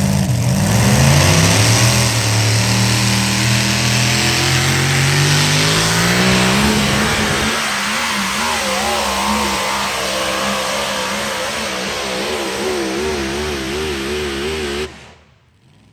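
A pulling truck's engine running at full throttle down the track, very loud, its pitch climbing over the first seven seconds and then wavering. The sound cuts off suddenly near the end.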